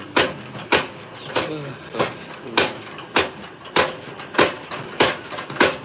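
Blacksmith's hammer striking metal in a steady, even rhythm: about ten sharp blows, a little under two a second, each ringing briefly.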